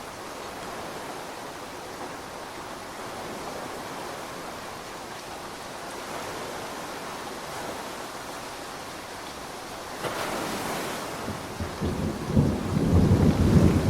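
Steady rain falling. About ten seconds in the rain swells, and over the last two seconds a deep rumble of thunder rises over it and becomes the loudest sound.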